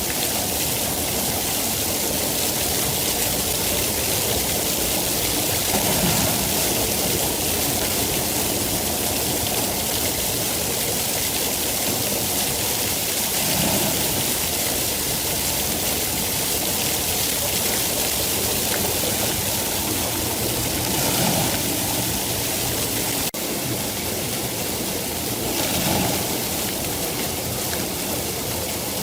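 Steady, heavy rain, a dense even hiss with a few soft swells in intensity and one brief dip in level late on.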